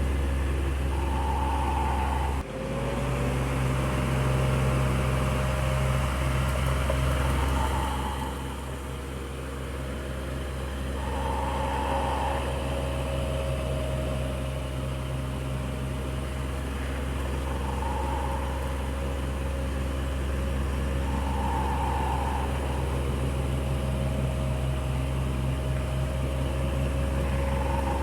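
Electric fan running with a steady motor hum and whirring air. The sound dips sharply for an instant about two and a half seconds in, and a faint higher hum swells and fades every few seconds.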